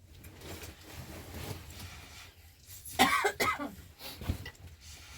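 A person coughing, a short loud fit about three seconds in, followed by a faint knock.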